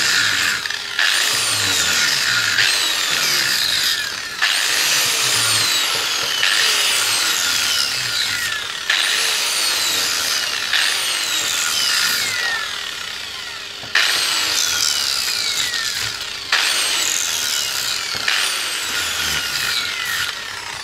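Handheld power tool working the metal of a motorcycle exhaust pipe, pressed on again and again. Each pass starts abruptly at a high pitch and falls steadily as the tool loads down, about a dozen times.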